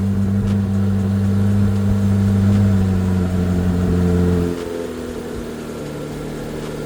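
2024 C8 Corvette Z06's 5.5-litre flat-plane-crank V8 on stock exhaust at high cold-start idle, its note easing down slightly. About four and a half seconds in, the sound drops abruptly to a quieter, steady lower idle.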